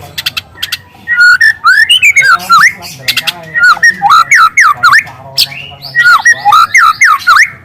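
Young white-rumped shama singing a loud, fast run of whistled notes that sweep up and down, with canary-like bursts mixed in.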